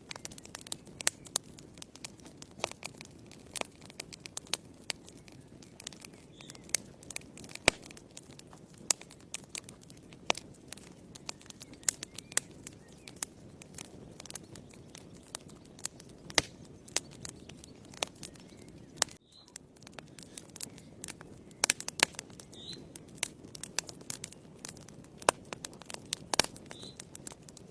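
Wood fire burning in a fireplace: irregular sharp crackles and pops over a low, steady rustle of flames. There is a momentary drop in the sound about two-thirds of the way through.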